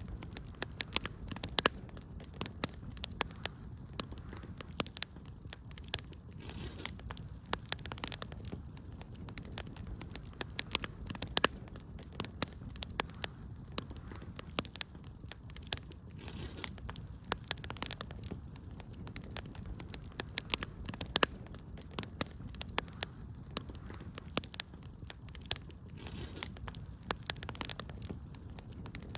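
Wood fire burning in a fireplace: many sharp irregular crackles and pops over a low steady rumble of the flames.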